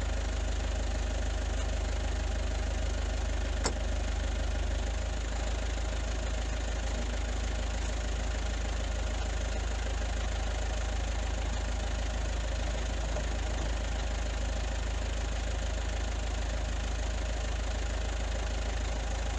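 An engine idling steadily, with a deep, even hum. There is one sharp click a few seconds in.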